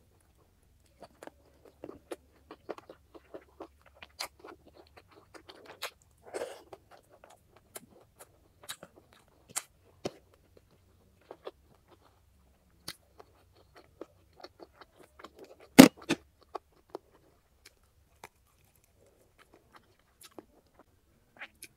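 Close-miked biting and chewing of grilled chicken: a scatter of short wet mouth clicks and small crunches, with one much louder sharp snap about three quarters of the way through.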